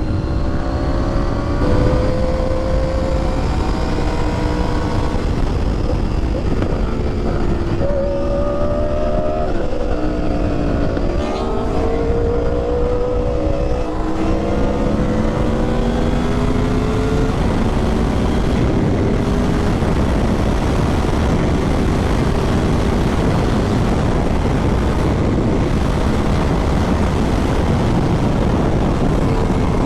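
Motorcycles accelerating onto a highway: engine notes climb and drop back through the gears for the first half, under heavy wind rush. After that only a steady roar of wind and road noise at cruising speed remains.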